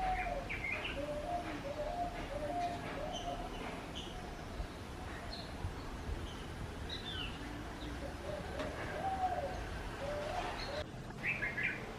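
Birds calling: a run of low, repeated notes with short higher chirps over them, and a quick cluster of high chirps near the end.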